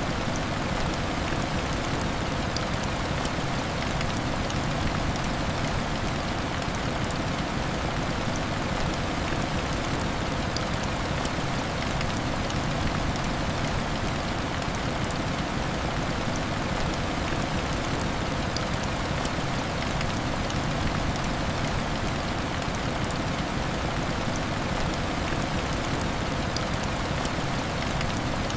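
Heavy rain beating on window glass: a dense, steady hiss with scattered small ticks of individual drops.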